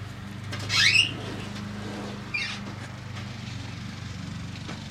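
Two short bird calls, a loud rising one about a second in and a fainter falling one a little after two seconds, over a steady low machine hum.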